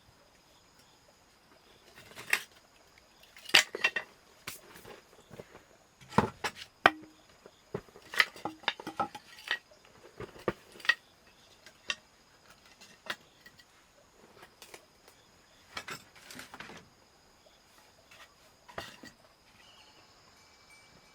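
Irregular clinks and knocks of hard objects being handled, bunched together in the first half and sparser later.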